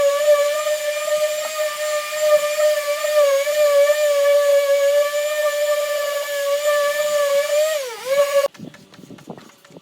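An electric power tool running with a steady high whine. It dips in pitch briefly about eight seconds in, then cuts off suddenly, leaving faint scattered knocks.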